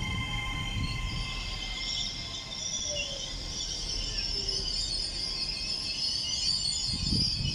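Trains in a station: a high-pitched electric whine over a steady low rumble, with a fainter tone sliding down in pitch over the first few seconds.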